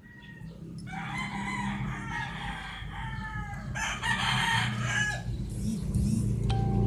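A rooster crowing twice, long calls that fall in pitch, over a low steady hum.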